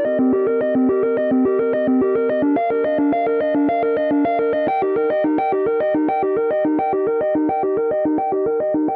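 An iPhone ringtone or alert tone: a synthesizer-keyboard melody of quick, evenly spaced notes, about six a second, looping steadily.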